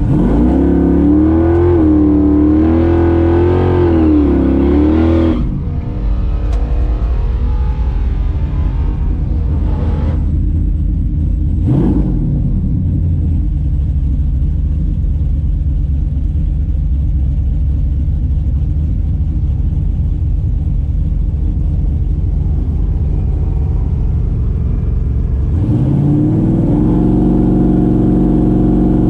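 Big-block V8 engine of a drag car. Its pitch swings up and down for about five seconds, then it runs as a steady low rumble, and near the end the pitch climbs and holds.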